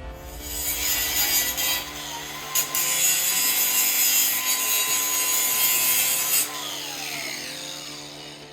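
Power grinder cutting steel, a loud hissing run of about six seconds, then the tool is let off and its whine falls away as it spins down. Background music plays underneath.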